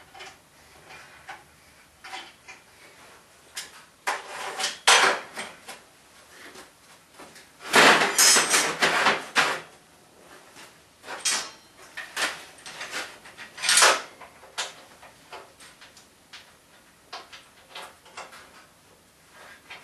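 Metal parts and tools clattering and knocking as they are handled on a workbench, in uneven bursts with quiet between them. The loudest clatter comes about eight seconds in.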